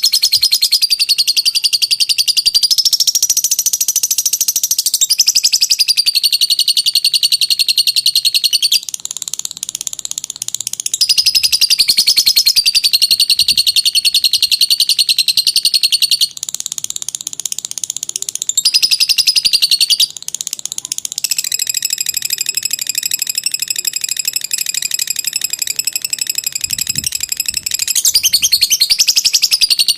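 Lovebird giving its long 'ngekek' chatter: a rapid, high-pitched trill of fast repeated notes that runs on almost unbroken, with short drops about 9, 16 and 20 seconds in.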